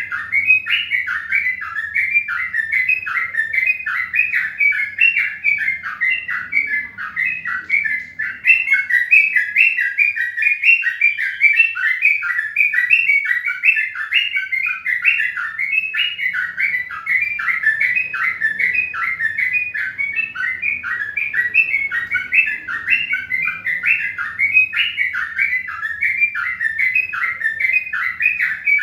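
A bird chirping without pause: an unbroken stream of short falling chirps, several a second.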